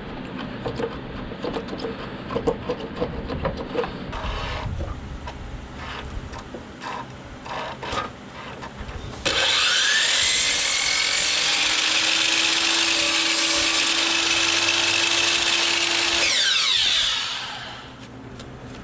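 Scattered knocks and scraping on wood, then a handheld power tool's motor starts about nine seconds in, spins up with a rising whine, runs steadily for about seven seconds and winds down, falling in pitch near the end.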